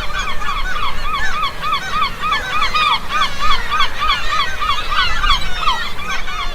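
A flock of birds calling together: many short, arched calls overlapping in a dense, continuous chorus, several a second.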